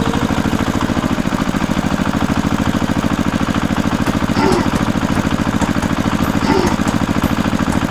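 Small engine running steadily at idle, with a fast, even pulsing beat.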